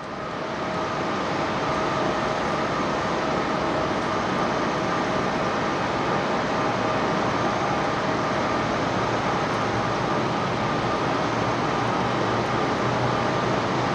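Jet airliner engines of an Airbus A350-900, Rolls-Royce Trent XWB turbofans, running: a steady noise with a steady whine on top.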